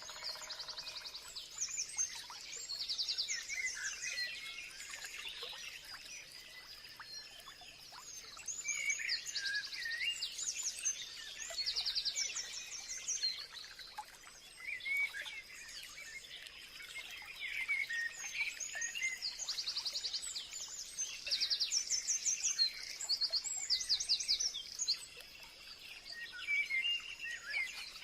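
Several small songbirds singing and chirping together, with bursts of fast, high rattling trills that come again every few seconds and cluster most thickly past the middle. A faint steady high tone runs underneath.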